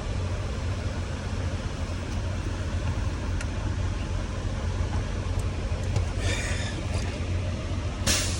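Steady low rumble like an idling engine. A short rustling sound comes about six seconds in, and a brief hiss near the end.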